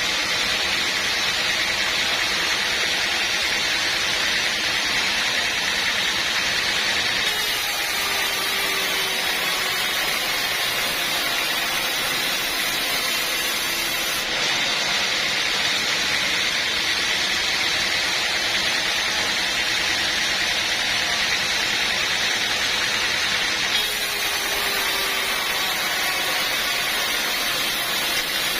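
Sawmill machinery running with a steady, hiss-like mechanical din, with no distinct knocks or breaks.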